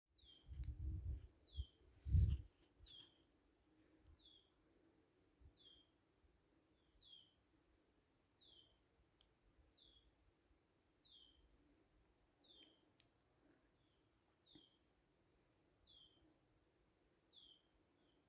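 A songbird repeating a two-note call, a short high note followed by a downward-slurred note, about once every second and a half. Low rumbling thumps come in the first couple of seconds, the loudest about two seconds in.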